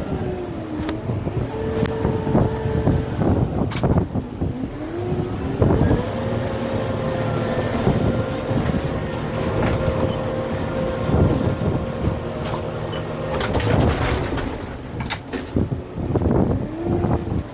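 Kubota M6-141 tractor's diesel engine working hard, its pitch rising about five seconds in, holding, then dropping back near the end, with sharp knocks throughout.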